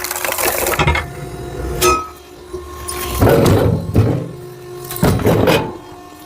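Firewood being split with an axe: about five sharp cracking blows, roughly a second apart, each as the blade strikes and the log splits.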